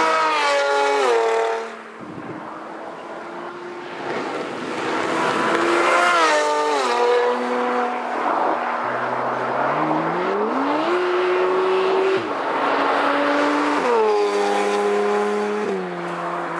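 Porsche 997 PDK's flat-six engine revving through an iPE aftermarket exhaust: the revs rise and fall several times, with a long climb about two-thirds of the way through that holds steady before dropping back.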